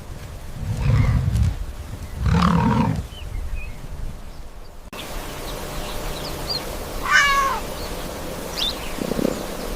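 Animal calls: two low, short calls in the first three seconds, then a cat meowing about seven seconds in, with a few short high chirps after it.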